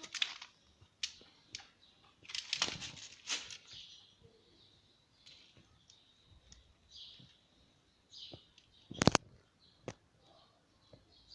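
Scattered clicks and rustling from hands working on boiler parts, with one sharp knock about nine seconds in. Faint bird chirps sound in the background.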